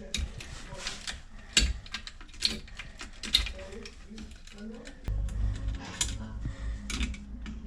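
Ratcheting clicks and rattles of hand tools working on a stairlift's metal casing as it is taken apart. A low steady hum sets in about five seconds in.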